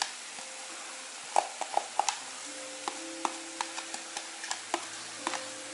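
Pork neck pieces and onion frying in a hot cast-iron kazan as grated carrot is tipped in: a steady sizzle with scattered sharp crackles and clicks.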